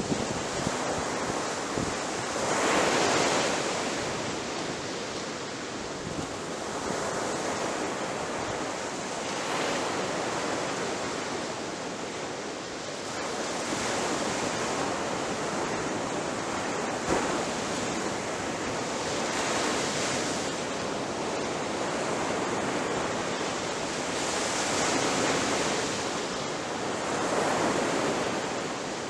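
Ocean surf breaking on a beach: a continuous rushing wash, swelling louder every few seconds as each wave crashes.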